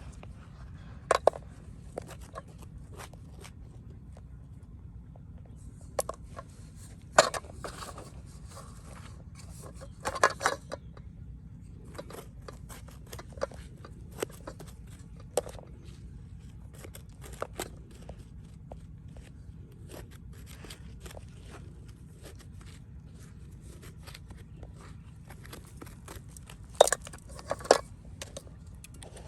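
Irregular scrapes, clicks and knocks over a steady low hum, with a few sharp, louder knocks about a second in, around the middle and twice near the end.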